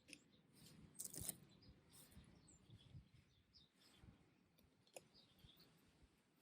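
Near silence, with faint scattered clicks, a brief cluster of them about a second in, and a few faint short high chirps.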